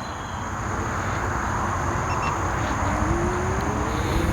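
Ninebot F2 electric scooter riding along: a steady rush of wind and tyre noise that slowly grows louder, with the hub motor's whine rising in pitch from a little past halfway as it speeds up. A thin steady high buzz of insects sits underneath.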